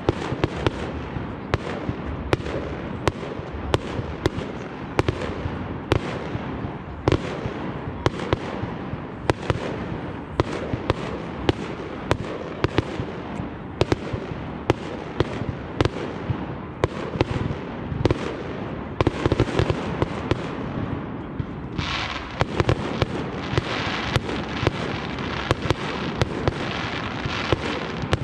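Aerial fireworks going off in quick succession, a steady run of sharp bangs over a continuous rumble of bursts. About three-quarters of the way through, a dense crackling sets in beneath the bangs.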